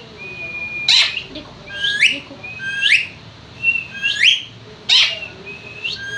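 Pet parrot whistling: a run of about five clear whistled notes, each held briefly and then sweeping sharply upward, about one a second, with a couple of short sharp squawks between them.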